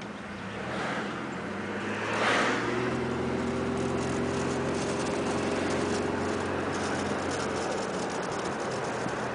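A motor vehicle's engine running with road noise: a steady engine hum, with a louder rush of noise about two seconds in.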